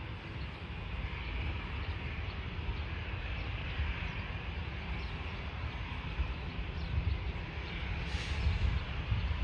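Airport ambience: a steady low rumble with a hiss over it, from aircraft engines running at a distance.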